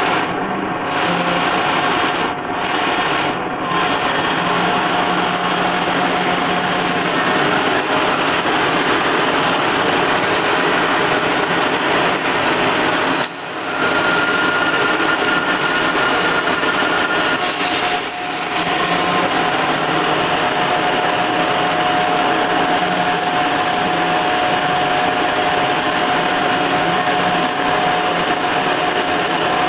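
Kress router spindle on a home-built CNC mill running at about 20,000 rpm, its 2 mm two-flute end mill cutting 3 mm aluminium dry at a slow feed: a loud, steady cutting noise with a thin whine. The noise briefly drops away three times, the longest dip about 13 seconds in.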